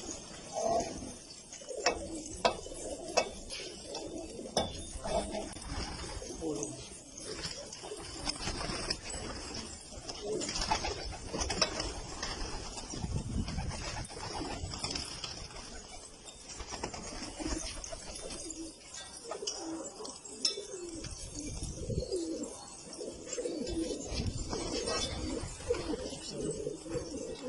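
Domestic pigeons cooing, several calls overlapping and repeating throughout, with a few sharp clicks in the first seconds.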